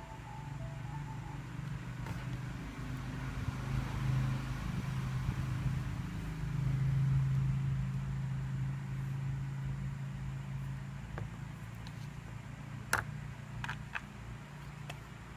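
A low, steady motor hum that swells to a peak in the middle and then slowly fades, with a few sharp clicks near the end.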